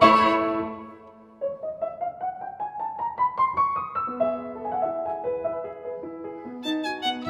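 Classical background music on solo piano: a chord that dies away, then a rising run of notes.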